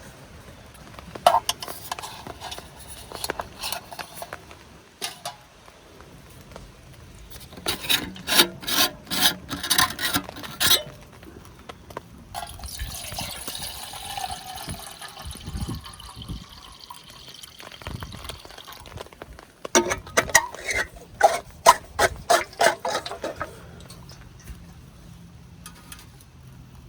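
Water poured into a small camp cooking pot for about three seconds, halfway through, between bouts of clicking and clattering as the pot and gear are handled.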